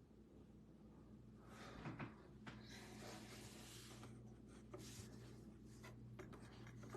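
Near silence: room tone with a faint steady hum and a few soft rustles and clicks.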